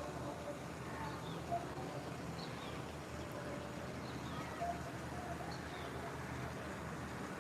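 Birds chirping: short, high, falling calls repeating about once a second over a steady low hum.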